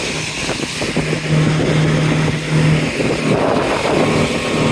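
Tour boat's engine running with a steady low hum that is strongest from about a second in to just before the middle, over a rushing noise.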